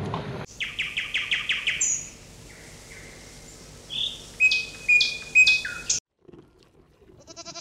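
Bird chirps: a quick run of about seven evenly spaced chirps, then a few sharper, higher chirps a couple of seconds later, cutting off abruptly about six seconds in.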